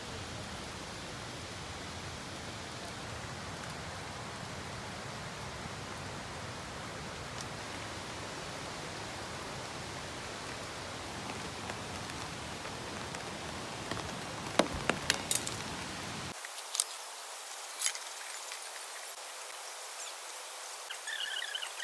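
Steady rain falling, with a few sharp drop taps about two-thirds of the way through. A couple of seconds later the deep part of the sound cuts out abruptly, leaving a thinner rain hiss, and near the end a repeated chirping begins.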